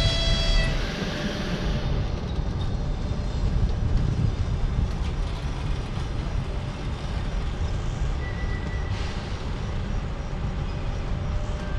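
Passenger train departing, its coaches rolling slowly past with a steady low rumble of wheels on the rails. A brief faint high tone comes about eight seconds in.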